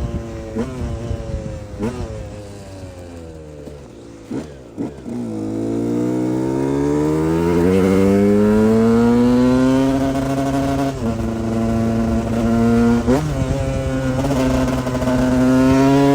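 KTM 125 EXC two-stroke single-cylinder dirt bike engine under way. It eases off and drops in pitch, blips briefly a couple of times, then pulls hard with a long rising pitch and grows louder. Short breaks in the note later on are typical of gear shifts.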